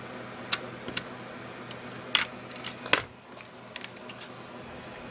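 Small clicks and taps of a screwdriver and screws on an RC car's plastic body as it is screwed back onto the chassis, the loudest taps about two and three seconds in.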